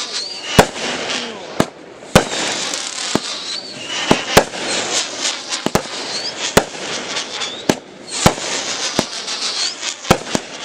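A 36-shot 500-gram fireworks cake firing: sharp reports come roughly once a second over a steady crackling hiss, with short whistles now and then.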